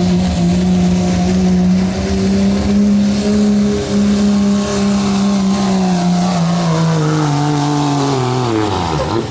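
Diesel pickup truck engine at high revs under full load, pulling the sled, its pitch held steady; over the last two seconds the revs fall away sharply.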